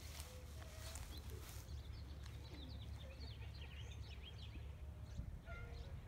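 Birds chirping outdoors: a busy run of short, high chirps in the middle, over a low steady rumble.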